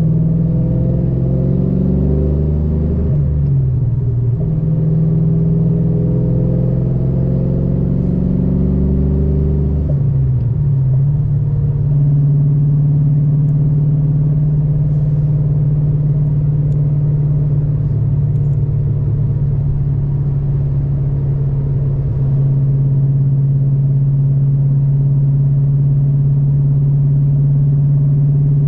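2013 Mustang GT's 5.0 L Coyote V8 through shorty headers, an X-pipe and SVE mufflers with the cats deleted, running loud at a steady engine speed. The pitch dips briefly about three seconds in and again about ten seconds in, then holds steady.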